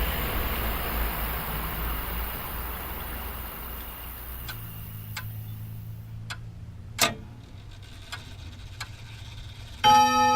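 Sound effects for a scene change: a steady rumble dies away over the first four seconds. A low hum and a few scattered ticks follow, with one louder click about seven seconds in. Near the end a bell-like chime of several held tones strikes.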